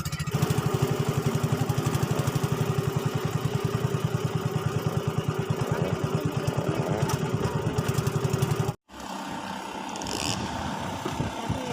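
Small engine running at a steady speed with a rapid, even pulsing beat. It cuts off abruptly near the end, and a quieter rushing noise follows.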